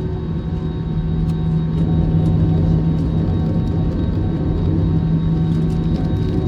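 Cabin noise inside an Airbus A321 taxiing on the ground, with its CFM56 engines at idle. It is a steady drone with a low hum, swelling slightly about two seconds in.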